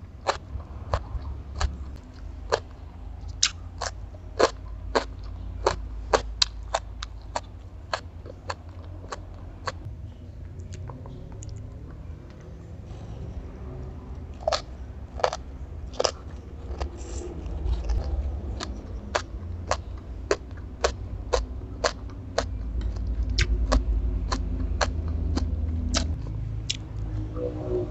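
Close-miked mouth sounds of chewing crunchy stir-fried bean sprouts: a run of crisp crunches, about two a second, with a sparser stretch midway.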